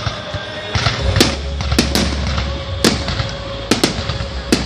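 Fireworks display bursting: a string of sharp bangs at irregular intervals, about eight in all, over a steady low rumble.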